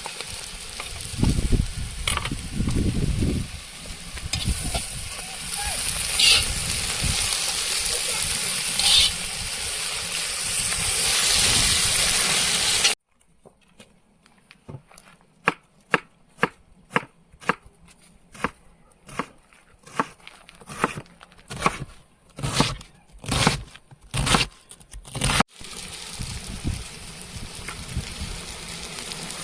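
Vegetables frying and sizzling in a kazan over an open fire, with a few low knocks. After an abrupt cut, a run of about fifteen evenly spaced sharp strokes, roughly two a second, then a steadier, quieter hiss.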